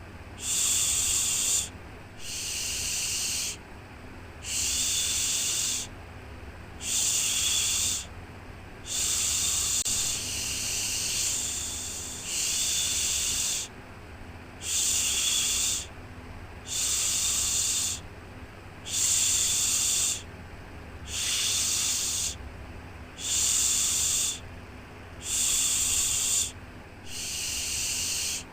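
Rhythmic "shhh" shushing for soothing a baby to sleep: a soft hiss of about a second, repeated roughly every two seconds, over a steady low rumble.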